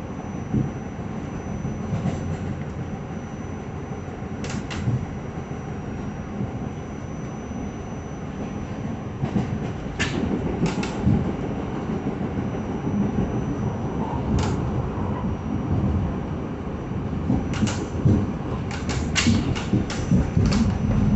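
New York City subway Q train running, heard from on board: a steady low rumble of wheels on the track, with a faint high steady whine. Sharp clicks of the wheels over rail joints come now and then and bunch together in the last few seconds.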